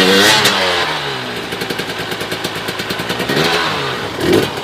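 Dirt bike engine revving hard, its pitch falling away after the first second, running on with a fast rattling beat, then revving up and down again near the end.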